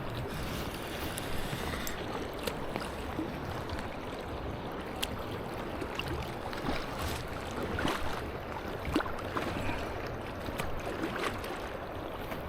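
Steady rushing of river current, with scattered faint clicks throughout.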